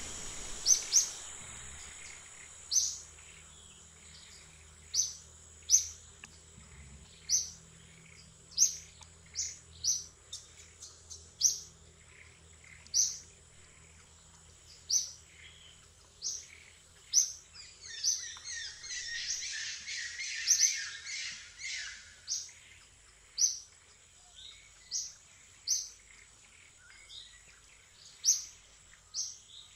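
Forest birds calling: short, high chirps repeat about once a second, with a stretch of busier chattering calls about two-thirds of the way through, over a steady high-pitched whine.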